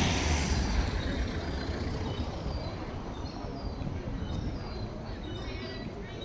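A motor vehicle passing close by on the street, loudest at the start and fading over the first second or so, leaving a steady traffic hum. From about halfway through, small birds chirp in short, high, falling notes, more often near the end.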